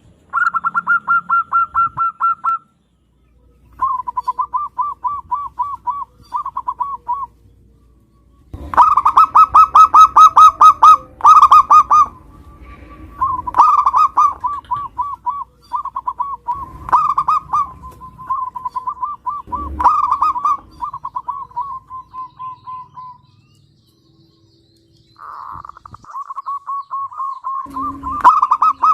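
Zebra dove (perkutut) singing: repeated phrases of quick staccato cooing notes, each phrase lasting one to three seconds with short pauses between. The phrases come at two slightly different pitches, and the loudest run is about a third of the way in.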